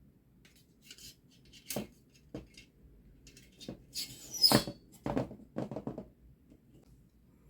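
Light clicks and clinks of thin titanium stove parts being handled and fitted together, about ten separate knocks with a louder clatter about four and a half seconds in.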